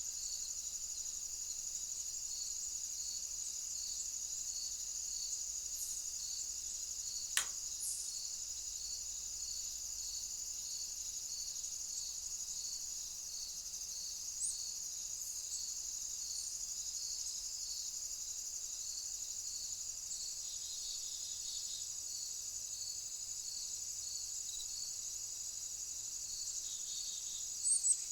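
Insect chorus outdoors: a steady high-pitched trill with a pulsing chirp repeating about twice a second. A single sharp click sounds about seven seconds in.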